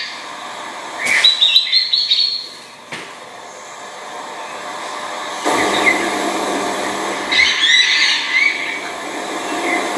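Fork-tailed flycatcher giving two bursts of quick, high chattering chirps, the first about a second in and the second near the end. A steady rushing background noise comes up about halfway through.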